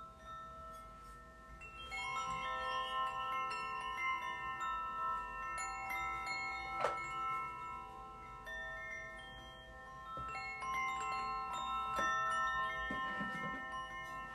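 Tuned metal percussion struck gently: several clear notes ring on and overlap, with a new cluster of strikes about two seconds in, a sharper strike near the middle and more notes towards the end.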